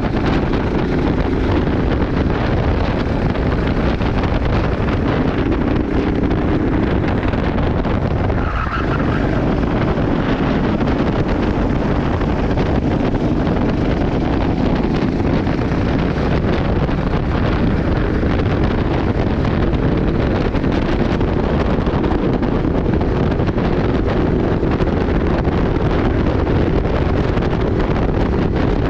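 Go-kart engine running steadily, half buried under heavy wind noise on the microphone.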